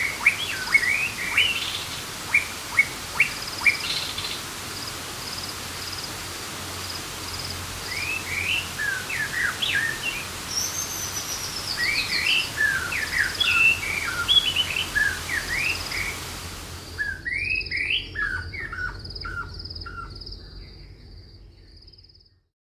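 Birds chirping in rapid short, sweeping notes over a steady hiss of rainforest background, with a high pulsing trill running underneath. About 17 seconds in the hiss cuts out suddenly, leaving the chirps and trill, which then fade away.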